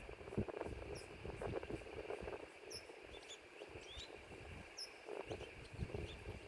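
Wind gusting and buffeting the microphone in an uneven rumble, with faint, short, high chirps scattered through.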